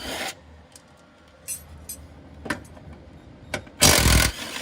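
Metal tools and parts clinking and knocking during work under a car, with a loud half-second burst of noise near the end.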